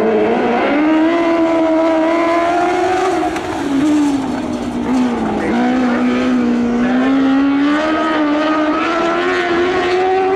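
Lightning sprint car engine running at high revs on a dirt oval. Its pitch holds high, drops for a couple of seconds around four to five seconds in as the throttle eases for a turn, then climbs steadily again as it accelerates.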